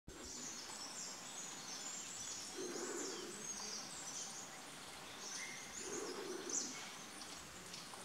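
Many small birds chirping in quick, high, overlapping notes, with two short low sounds about three and six seconds in.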